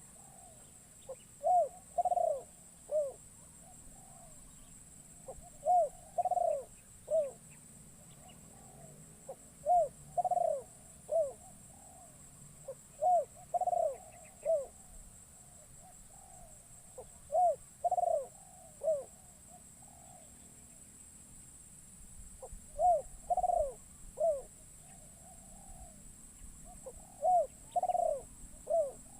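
Spotted dove (terkukur) cooing: a decoy bird calling to lure wild doves. It repeats a three-note phrase, short, longer, short, about once every four seconds, with a slightly longer pause about two-thirds of the way through.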